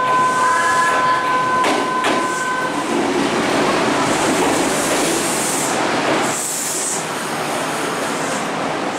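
Kintetsu Minami-Osaka Line electric train pulling into the platform and rolling slowly past close by, with rumbling, a few knocks from the wheels and a rushing hiss as the cars go by. A steady electronic tone sounds over the first few seconds.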